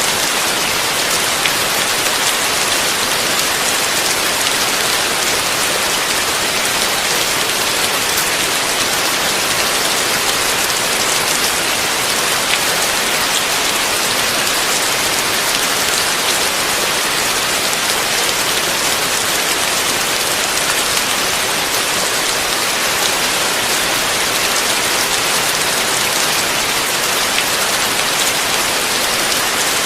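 Heavy rain falling steadily: a dense, even hiss of many drops, with no thunder.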